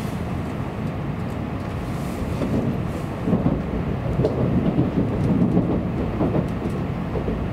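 Shinkansen running noise heard inside the passenger car: a steady low rumble of wheels on rail as the train slows for a station stop, with uneven rumbling swells from about two and a half seconds in.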